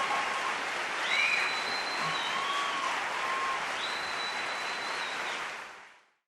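Audience applauding, with a few long high-pitched cheers over the clapping. The sound fades out near the end.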